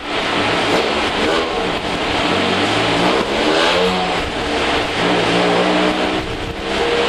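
Mazda Miata race car's rebuilt four-cylinder engine running under load on a chassis dyno during tuning, its pitch climbing, dropping back and climbing again several times, over a steady rushing noise.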